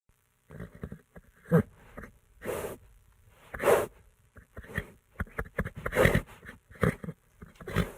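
A horse breathing noisily in short, rough bursts about once a second, with small clicks between the breaths. It starts about half a second in.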